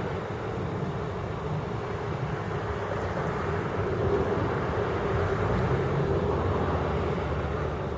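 Steady low rumbling background noise of an outdoor recording, even throughout with no distinct events.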